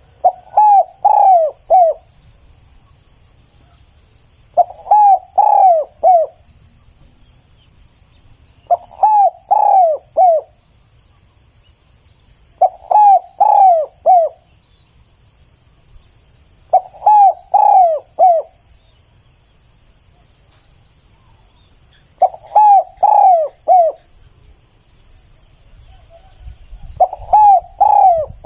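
Spotted dove cooing: short phrases of three or four quick coos, repeated about every four to five seconds. Steady insect trilling runs underneath.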